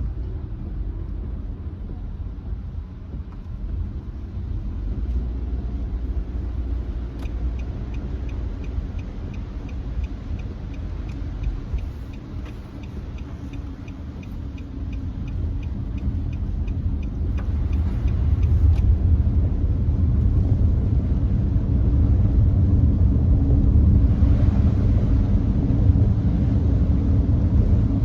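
Road and tyre rumble inside a Nissan Note e-POWER at highway speed, growing louder about two-thirds of the way through. A regular ticking of about three ticks a second runs through the middle stretch.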